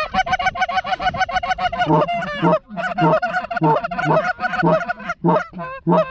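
Canada goose honks and clucks blown close by on hunters' goose calls. They start as a fast, even string of short clucks for about two seconds, then settle into slower, separate honks a few per second, calling in approaching geese.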